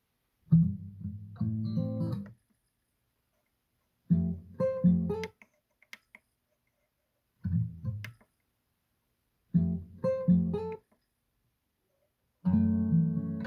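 Acoustic guitar music played from a Sony CDP-228ESD CD player that has been revived with a replacement laser pickup. It comes in five short snatches of one to two seconds, each cut off by complete silence.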